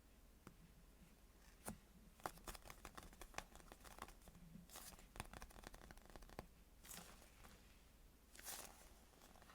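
Faint crackling and crinkling as foam squishy toys are squeezed and handled close to the microphone, with scattered sharp clicks and a few longer crinkly swishes.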